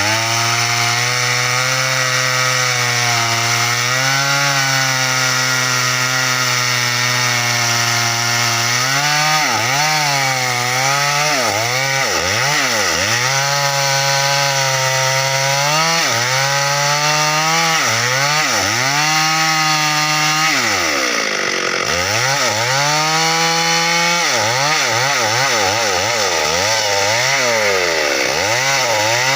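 Stihl MS 382 two-stroke chainsaw cutting teak branches. The engine holds steady at high revs, then its pitch dips and recovers again and again as the chain bites. About two-thirds through it drops low once before revving back up.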